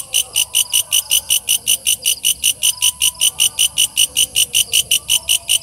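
Walang kecek, a katydid (bush cricket), calling in a fast, even series of sharp, high-pitched chirps, about five a second.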